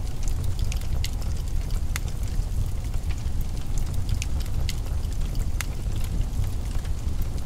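Wood fire crackling in a fireplace: scattered sharp pops at irregular intervals over a steady low rumble.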